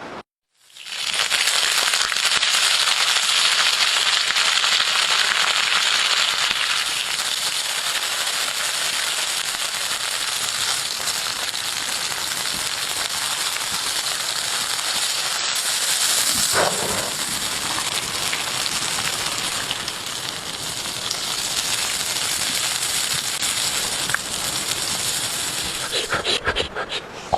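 Food sizzling and crackling on a hot cooking stone, a dense steady hiss full of small pops that starts about a second in. Near the end it gives way to irregular short clatters.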